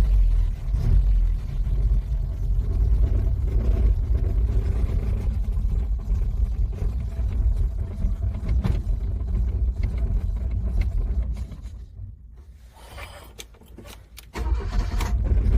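Car engine cranking over in freezing cold, a steady heavy rumble. It drops away about twelve seconds in and comes back loud near the end.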